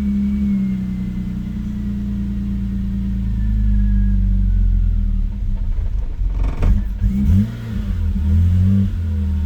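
BMW E39 528i's 2.8-litre inline-six running at a rough idle, its speed sagging and picking back up about seven seconds in. The owner suspects a dirty idle air control valve or a bad O2 sensor.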